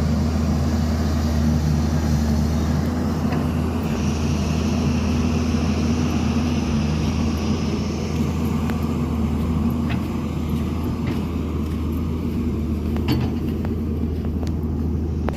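Heavy diesel engine of construction machinery running steadily with a deep, even drone. A few sharp clicks or knocks come near the end.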